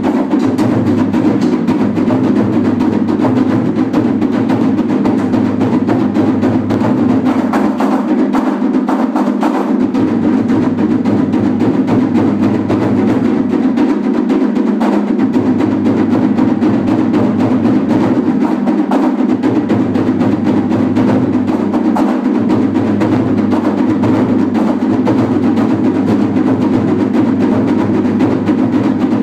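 Japanese festival taiko drums beaten continuously in a dense, steady rhythm.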